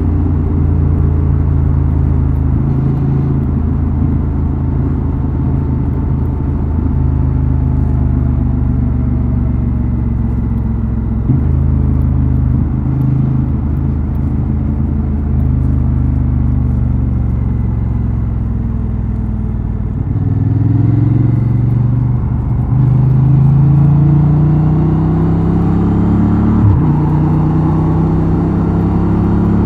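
Honda Transalp XL750's parallel-twin engine and exhaust under way, holding a steady note for most of the time, then rising in pitch as the bike accelerates from about two-thirds in.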